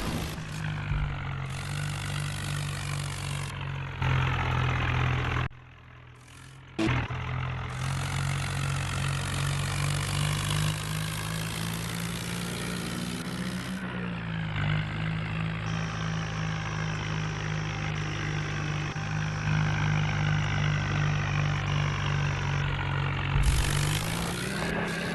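Tractor diesel engine running steadily with a low drone, its pitch shifting slightly around the middle and rising near the end. The sound drops away for about a second, roughly six seconds in.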